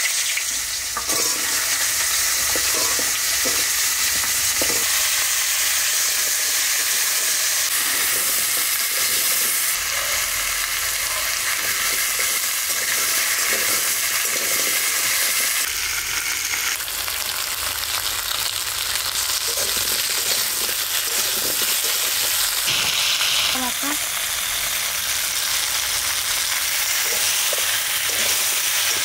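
Cubes of elephant foot yam sizzling steadily as they fry in hot oil in a metal wok, with a metal spatula scraping and turning them at irregular moments.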